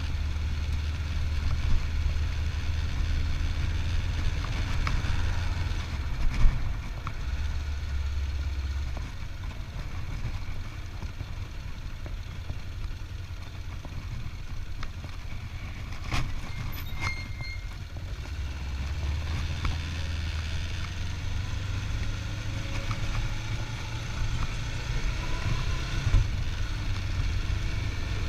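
Engine of a 25-year-old motorcycle running steadily, a continuous low hum that eases a little for a while midway.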